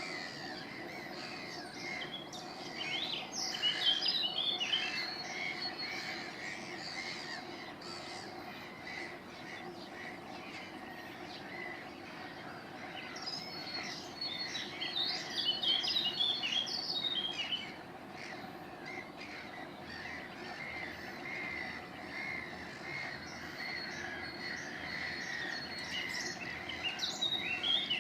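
Birds singing and chirping, with bouts of rapid high notes about three seconds in and again from about 13 to 17 seconds, over a steady low hum.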